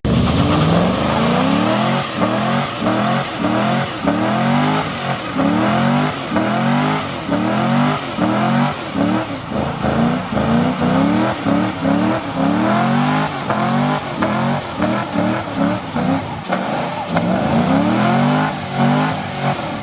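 A car engine revved over and over in quick succession, its pitch climbing and dropping about one and a half times a second.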